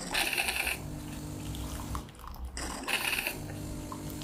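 De'Longhi coffee machine's pump humming steadily in two stretches, broken by short hissing bursts of water at the start and about three seconds in.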